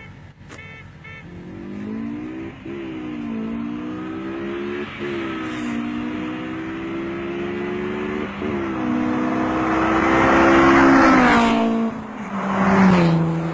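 Big-block 454 Chevy V8 accelerating hard through the gears, its pitch climbing in each gear and dipping at each of three shifts. It is loudest near the end, then backs off.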